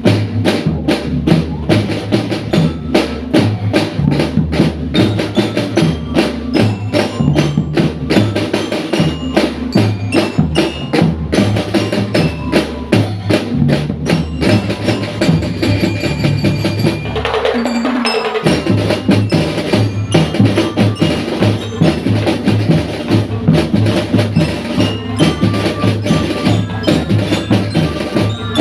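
School drum band playing: marching drums beat a steady, dense rhythm with a bell-like glockenspiel melody over it. Near the middle the drums drop out for about a second under a short rising run, then come back in.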